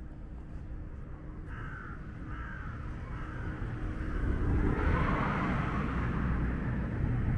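A bird gives three short calls over street rumble. About four seconds in, the noise of a passing motor vehicle swells up and stays loud.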